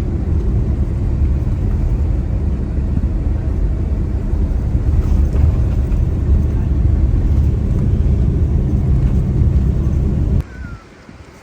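Steady low drone of a tour coach's engine and road noise heard from inside the bus as it drives. It cuts off suddenly near the end.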